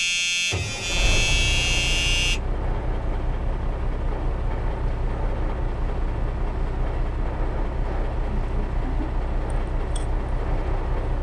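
A harsh, buzzing horn-like tone that cuts off sharply about two seconds in, under which a steady low rumbling noise starts and carries on.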